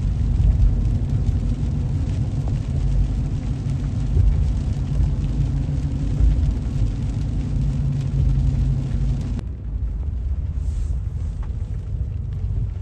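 Car driving on rain-wet roads, heard from inside the cabin: a steady low rumble of engine and tyres with a tyre hiss over it. The hiss drops off suddenly about nine seconds in while the low rumble carries on.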